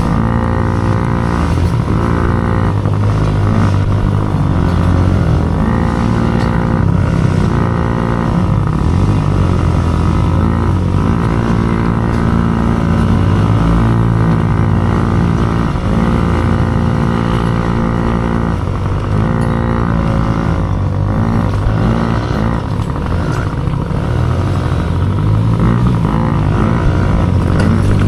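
Small dirt bike engine racing, revving up and down through the gears, its pitch repeatedly rising and then dropping at each shift or throttle-off.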